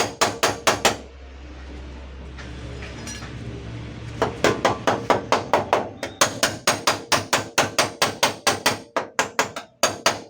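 Hammer tapping rapidly on the sheet-metal body panel of a van, knocking out a dent, about four blows a second. The tapping stops for about three seconds early on, leaving a low hum, then resumes steadily.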